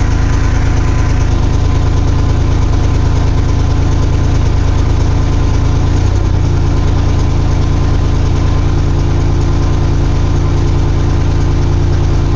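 Carbureted 2.8 V6 of a 1982 GMC S-15 idling loudly on fast idle just after a cold start, with the choke still on. The engine speed dips briefly about six seconds in, then runs steady again. The loudness comes from a cracked exhaust manifold.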